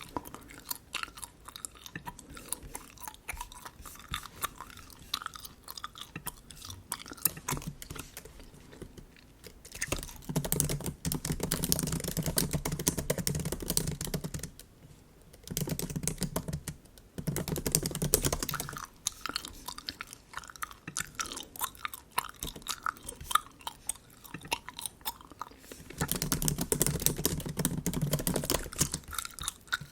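Close-miked bubble gum chewing: a dense run of small wet, sticky clicks and smacks, louder in several stretches of a few seconds each.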